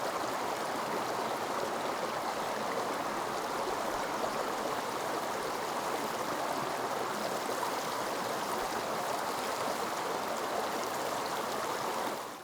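Forest stream water flowing steadily, an even rushing, fading out at the very end.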